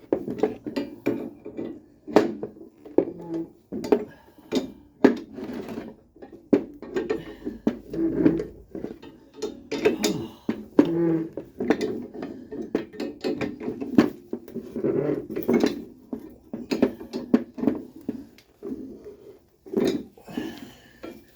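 Metal tools and strut parts clinking and knocking irregularly as a coil-spring strut is worked on by hand, with many short, sharp clanks throughout.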